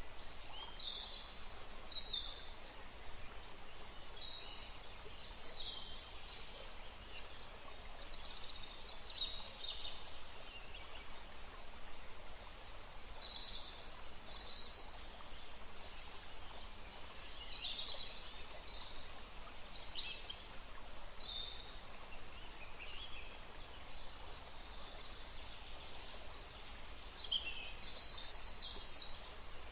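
Forest ambience: several small songbirds chirping and trilling on and off over a steady soft background hiss.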